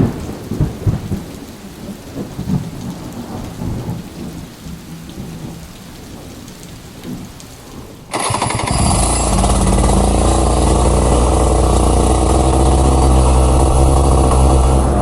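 Thunder rumbling with heavy rain for about eight seconds, loudest at the start and fading, then an abrupt cut to a Rotax 125 cc two-stroke kart engine running loud at steady revs.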